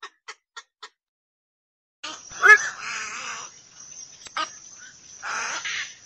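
Black-crowned night heron lure call: a few quick short ticks, then after a pause, harsh croaking calls, the loudest about half a second after they start and a shorter one near the middle, over a steady hiss.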